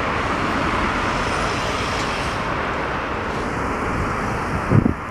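Steady rumble of a passenger train's coaches running over the rails as they move away, with the high hiss dying off about three seconds in. A brief low thump near the end.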